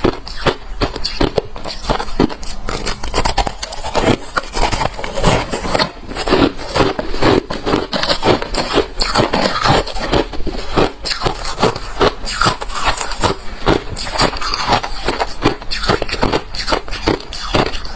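Close-miked chewing of hard refrozen crushed ice: dense, irregular crunching, several sharp crunches a second.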